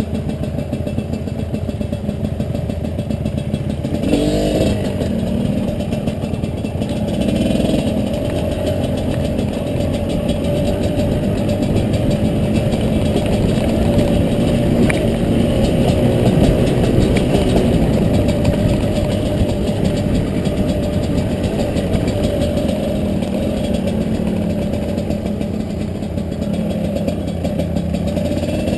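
Two-stroke dirt bike engine running steadily. Its revs rise briefly about four seconds in and again a few seconds later.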